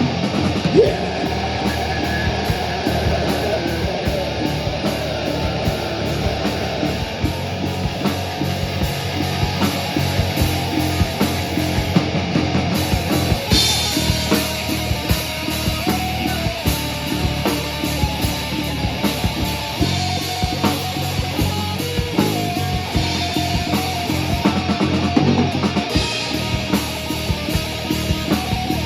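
Rock band playing live: electric guitar and drum kit, loud and driving, with cymbal crashes about halfway through and again near the end.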